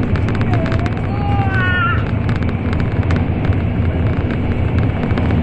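Cabin noise of a Shinkansen train running at high speed: a steady low rumble of wheels, track and air rushing past. A few brief gliding high tones come between about half a second and two seconds in.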